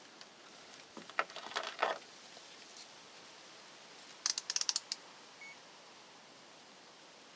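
Small objects being handled: a few light clicks and knocks about a second in, then a quick run of sharp clicks about four seconds in.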